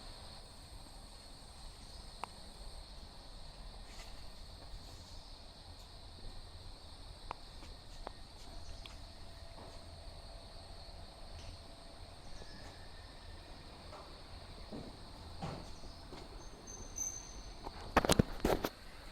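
Outdoor ambience with a steady high-pitched insect chorus and scattered faint clicks, then a few loud knocks near the end.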